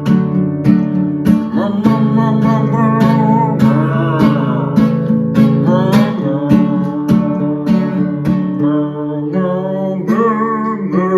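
Acoustic guitar strummed in a steady rhythm: the instrumental break of a sing-along children's song.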